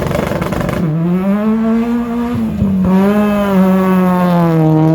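Car engine revved hard and held at high revs, its pitch wavering slightly up and down, after a rough noisy first second.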